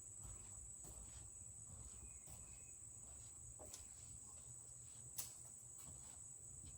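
Near silence, with a faint, steady, high-pitched trill of crickets and a single sharp click about five seconds in.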